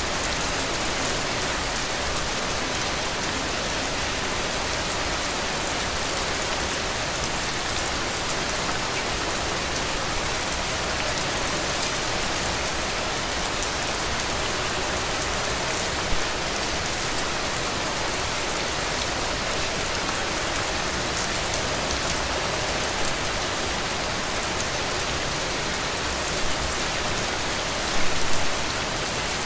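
Heavy rain falling steadily, with a few louder drips or drops near the end.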